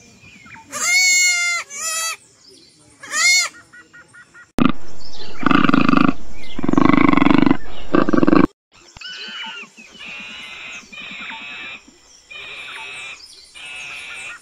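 Lambs bleating twice, then a cougar's loud, harsh growl lasting about four seconds, then four similar animal calls, each about a second long, repeated at an even pace.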